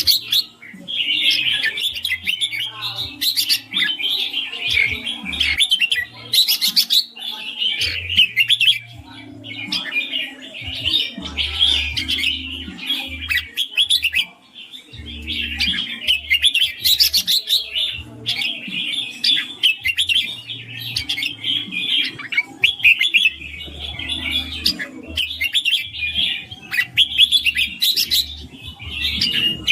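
Red-whiskered bulbul singing: bright, quick chirping phrases in long bouts with short pauses between them, over an intermittent low hum.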